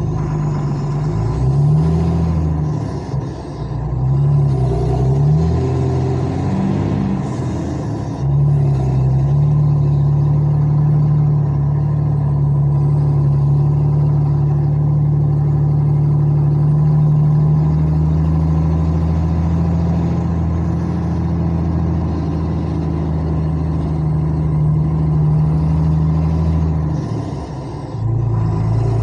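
Truck engine running in traffic, its pitch rising and falling over the first eight seconds, then holding a steady drone until it eases off near the end.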